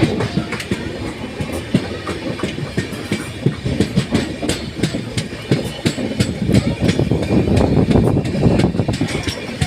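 Train running along the track, with a steady rumble and frequent clicking and clattering of wheels over the rails.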